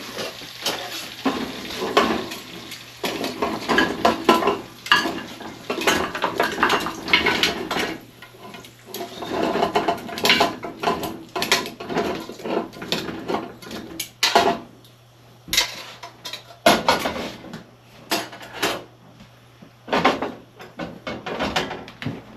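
Metal pots and utensils clinking and scraping as cooked pig trotters are moved from a Dutch pot into a pressure cooker. The knocks are dense for the first several seconds, then come as sparser single clinks.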